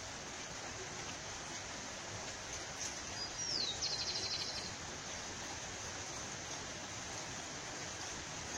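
Steady outdoor background hiss, with one short bird song about three seconds in: a high note sliding down into a rapid trill lasting about a second.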